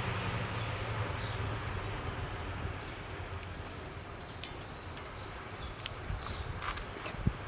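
Firewood burning in a fire pit: a steady hiss that eases off over the first few seconds, then scattered sharp crackles and pops from about halfway through.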